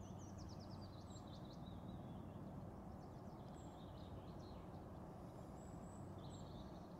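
Quiet outdoor ambience: birds chirping faintly, a quick run of chirps near the start and scattered short calls after, over a steady low background rumble.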